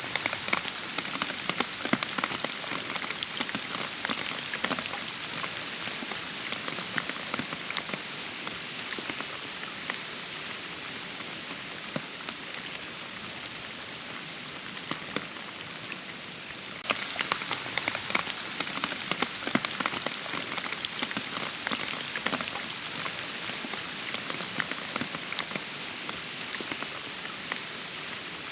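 Steady rain falling, with many separate drops heard striking close by, getting a little louder about two-thirds of the way through.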